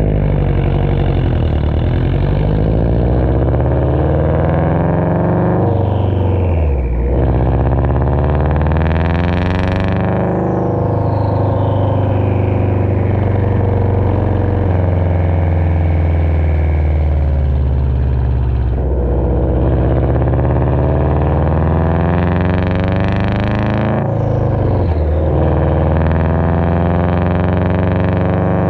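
2019 Subaru STI's turbocharged 2.5-litre flat-four, on a Grimmspeed catted downpipe, Agency Power equal-length header and Greddy catback exhaust, accelerating hard through the gears. Revs climb for several seconds and drop sharply at each shift, about four times.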